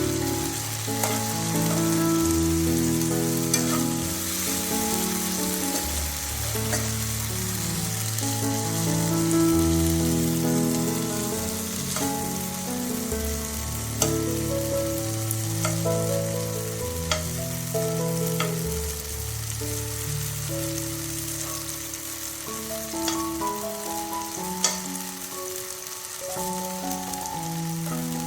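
Food sizzling as it stir-fries in a hot pan, with occasional sharp clicks of a utensil against the pan. Background music with held low notes plays underneath.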